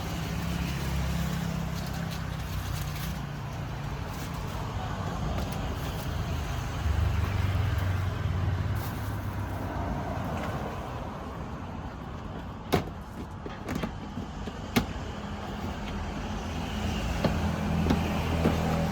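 A motor vehicle engine running with a steady low hum that grows louder about seven seconds in, over street noise. Two sharp knocks come about thirteen and fifteen seconds in.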